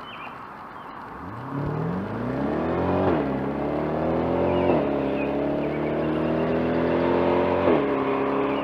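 Mid-engine Chevrolet Corvette prototype accelerating hard, its engine note climbing through the gears from about a second in, with three quick upshifts, each a sudden drop in pitch before it climbs again.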